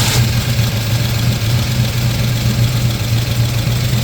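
1970 Ford Mustang Mach 1's 351 Cleveland four-barrel V8 idling steadily, seconds after a cold start.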